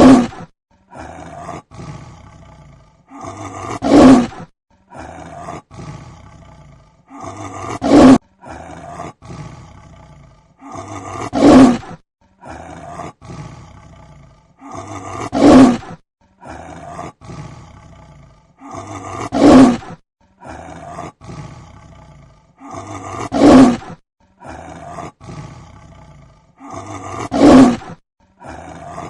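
Big cat roar sound effect played on a loop: a loud roar about every four seconds, with softer grunting calls between them, the same pattern repeating throughout.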